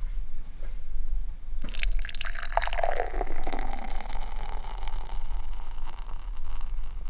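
Liquid poured into a container, gurgling, starting suddenly about a second and a half in and going on for a few seconds.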